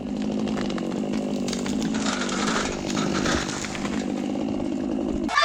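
Chainsaw engine running steadily at high speed, a continuous buzz at a constant pitch that cuts off abruptly near the end.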